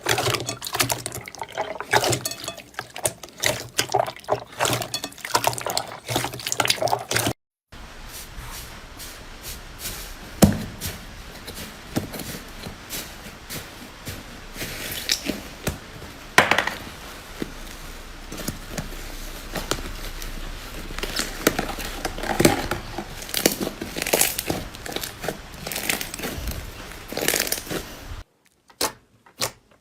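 Slime being squished and worked by hand: dense wet clicking and popping. It cuts off abruptly about seven seconds in and gives way to a softer, hissier stretch with scattered pops. Near the end it cuts to a different run of evenly spaced clicks.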